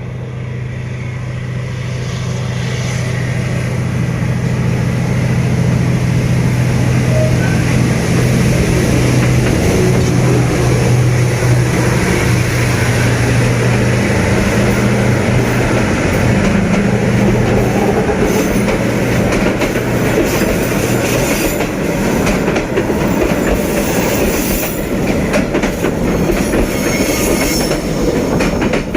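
D19E diesel-electric locomotive hauling a passenger train past, its engine drone over the rumble and clatter of wheels on rail, growing louder over the first several seconds. The low engine hum fades about two-thirds through while the wheel and rail noise carries on.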